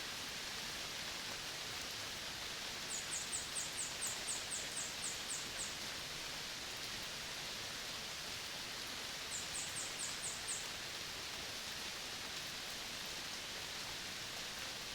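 Tropical forest ambience: a steady, even hiss. Two quick runs of very high, short, falling chirps come through it, about a dozen starting a few seconds in and a shorter run of about six near the middle.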